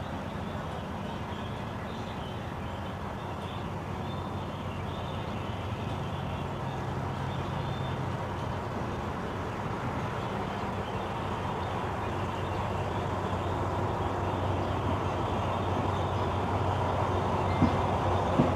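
Diesel-electric passenger train starting to pull away, heard from a carriage: a steady low locomotive engine drone and rolling noise that grow louder as the train gathers speed, with two sharp clicks near the end.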